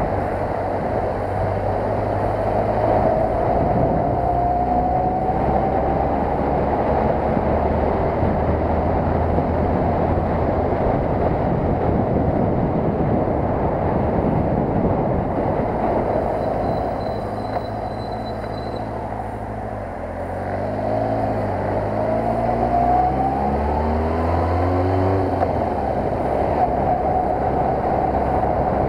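Kawasaki ZR-7's air-cooled inline-four engine running under way, heard from the rider's helmet. A few seconds in, the engine pitch climbs as it accelerates. Past the middle it falls and quietens briefly, then climbs again in a run of rising sweeps as the bike pulls away.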